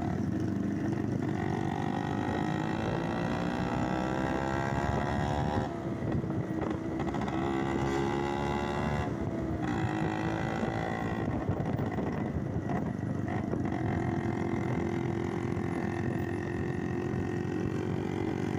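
Motorcycle engine accelerating, its pitch climbing and then dropping at each gear change twice, before it runs at a steadier speed.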